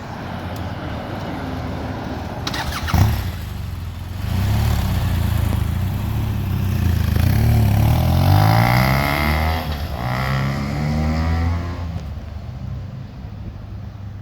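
Police motorcycle engine coming in and passing close. Its note rises and falls over several seconds, is loudest around the middle, then fades. A single sharp click comes about three seconds in.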